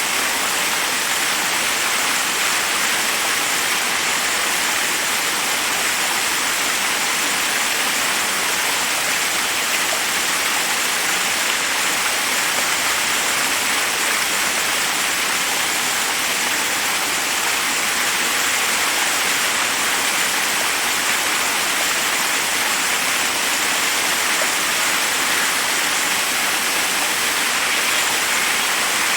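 Waterfall: water cascading over rocks in a steady, unbroken rush. It is mostly a bright hiss of falling water with little deep rumble.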